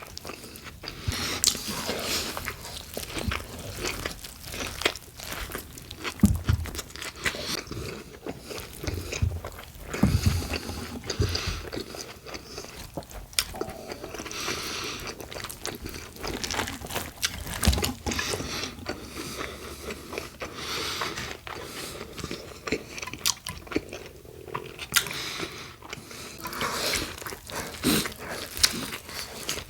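Close-miked biting and chewing of a big BLT sandwich on Italian bread with bacon and iceberg lettuce: irregular crunchy bites and chewing, with a few heavier bites now and then.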